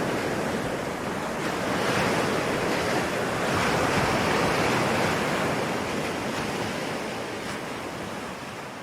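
Ocean surf washing in steadily, swelling twice to a peak and then fading away gradually near the end.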